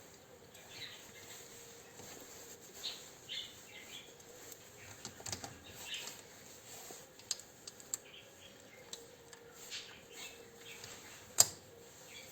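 Scattered light clicks and taps, with one sharp, louder click near the end and faint short chirps in between.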